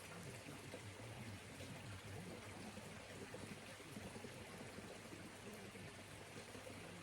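Faint, steady rushing of a mountain stream flowing.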